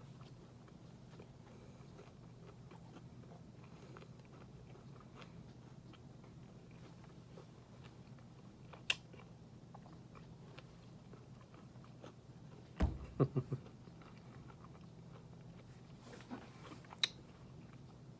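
A person chewing a Nature Valley Sweet & Salty cashew granola bar, with a few sharp crunches: one about 9 seconds in, a louder cluster around 13 seconds, and more near the end. A low steady hum runs underneath.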